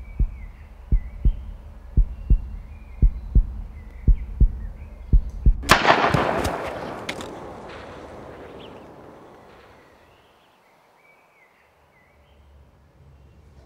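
A heartbeat effect, slow paired low thumps about once a second, is cut off about halfway through by a loud rifle shot that echoes and dies away over several seconds. Birds chirp faintly throughout.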